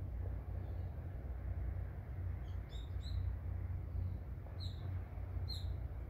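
Small birds calling in forest: a handful of short, sharp chirps in the second half, over a steady low rumble.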